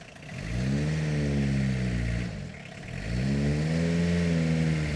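Car engine revving as the car is eased forward at low speed: the engine note rises and falls twice, dropping back near idle about halfway through between the two pulls.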